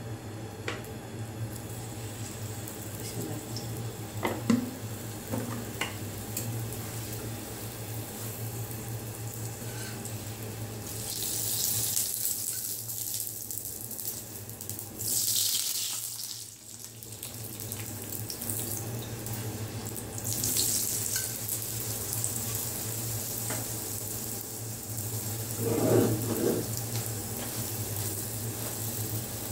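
Oil sizzling on a hot iron tawa as a paratha fries, the hiss surging loudly several times as it is pressed and turned, with a few short knocks and scrapes from the spatula and tongs over a steady low hum.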